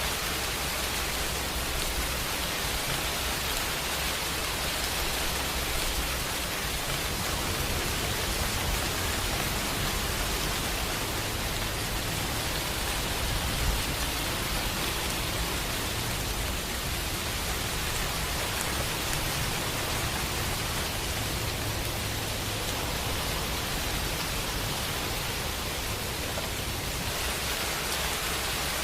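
Steady rain falling, an even hiss of many drops with no break or change in strength.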